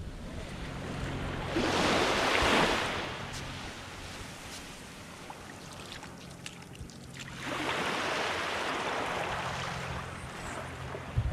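Small waves breaking and washing up a sand beach, two surges about five seconds apart that swell and fade, over a faint steady low hum.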